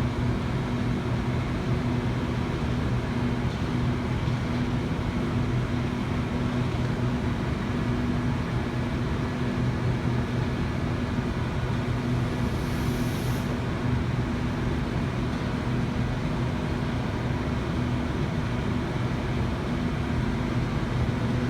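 Steady low electrical hum over a broad rushing noise from a Sydney Trains Waratah (A set) standing at the underground platform, its auxiliary and air-conditioning equipment running. A brief faint high hiss comes about halfway through.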